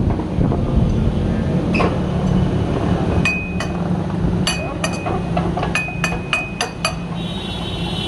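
Hammer striking steel: a quick run of sharp metallic strikes in the second half, several ringing with a high clear tone, over a steady low hum.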